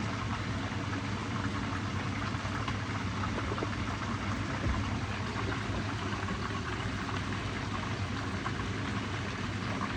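Food sizzling as it cooks in a pan on the stove: a steady, dense fine crackle.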